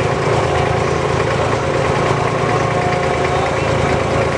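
Dubai abra's inboard diesel engine running steadily: a constant low engine drone with a fainter, higher steady hum over it.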